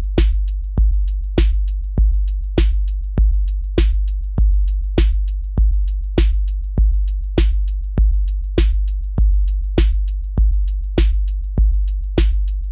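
Electronic drum-machine beat: a deep bass kick about every 0.6 s over a held low bass, with sharp ticks in between.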